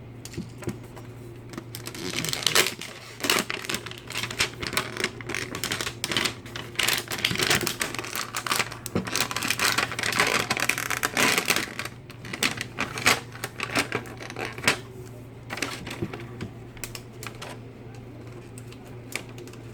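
A toy's plastic packaging being handled and opened by hand: dense, irregular crinkling and clicking of plastic, busiest in the first half and thinning out later, over a steady low hum.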